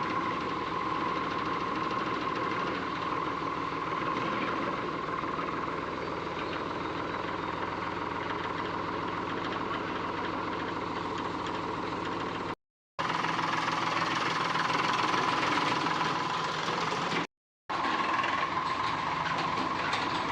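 Eicher tractor's diesel engine running steadily at a knocking idle, broken twice by short gaps of silence about twelve and seventeen seconds in.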